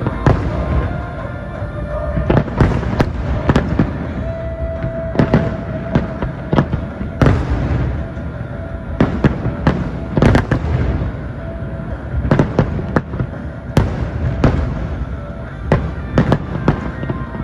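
Aerial firework shells bursting in rapid succession: many sharp bangs, some in quick clusters, over a continuous low rumble.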